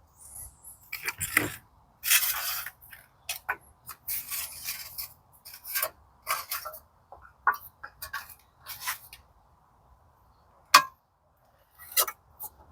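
Small metal hand tools handled and scraped against sheet steel: irregular scraping and rubbing strokes with light clinks, and one sharp click near the end.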